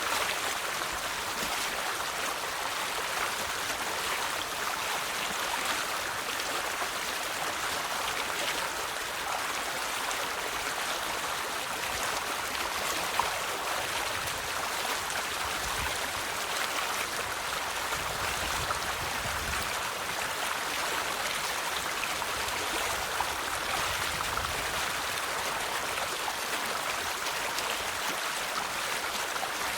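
River water flowing steadily over stones, a continuous babbling rush with small splashes and gurgles throughout.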